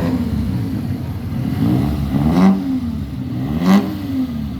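Muscle car engine running as the car pulls away, revved up and back down twice in quick succession, about two seconds in and again near the end.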